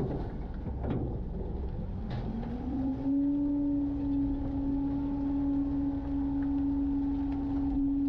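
Garbage truck's engine and packer hydraulics running with a steady low hum over a rumble. The hum drops away briefly, glides back up about two and a half seconds in and then holds steady, with a couple of knocks during the dip.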